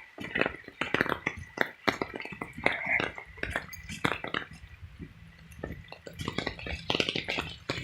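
Raindrops tapping irregularly close to the microphone, a rapid scatter of small clinking ticks.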